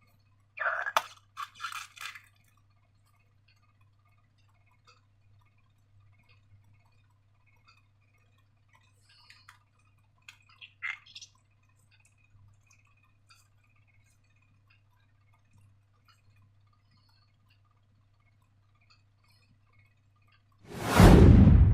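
Hands working slime and balloons. A few short, sharp squishes and clicks come near the start and again about halfway, then a loud handling noise lasts about a second near the end, over a faint steady hum.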